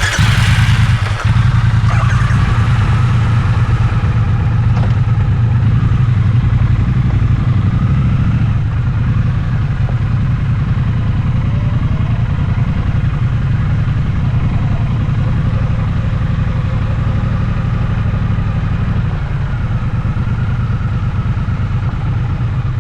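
Triumph 1200 cc parallel-twin motorcycle engine starting and then running steadily at low revs.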